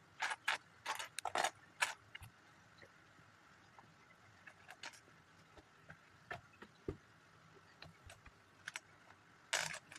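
Loose plastic Lego pieces clicking and rattling as they are sorted through by hand in search of a part. A quick run of clicks in the first two seconds, then scattered single taps, and another short rattle near the end.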